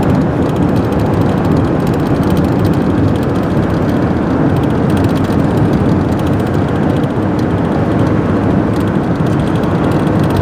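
Loud, steady rumbling roar of a moving vehicle with a low hum underneath, holding level without rising or falling.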